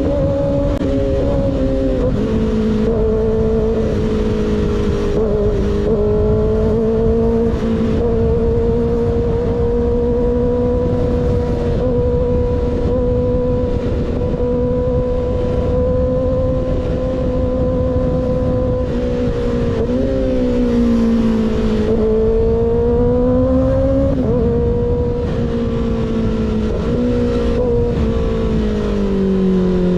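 Motorcycle engine with an unbaffled M4 GP19 slip-on exhaust running at steady cruising revs, with wind noise over the microphone. About twenty seconds in the revs dip and climb again, and they fall off near the end.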